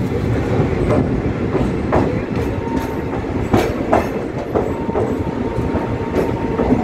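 Indian passenger train coach running along a station platform, heard from its open door: a steady rumble with irregular clacks of the wheels over rail joints, about one a second, and a faint thin whine in the second half.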